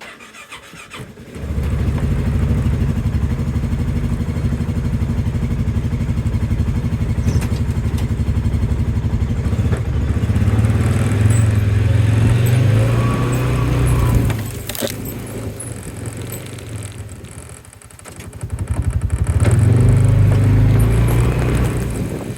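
A vehicle engine catches about a second in and runs steadily. Its pitch and level rise about ten seconds in, ease back around fourteen seconds, and rise again near the end.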